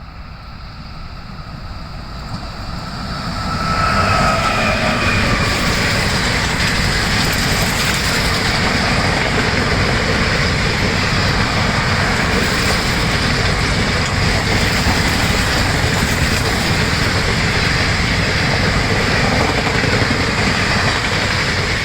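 A train passing close by on the line, growing louder over the first four seconds, then a steady loud rush of wheels on rails with clickety-clack as the coaches go by.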